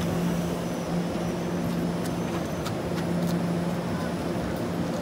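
Puyuma Express tilting electric train at a station: a steady electrical hum over even mechanical noise, with a few faint ticks.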